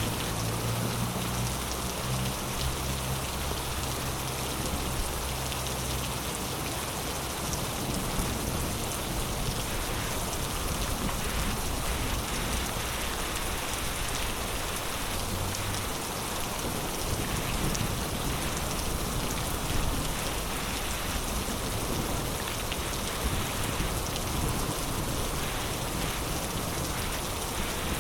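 Heavy rain falling in a steady, dense hiss, with a low rumble underneath during the first few seconds and again briefly about halfway through.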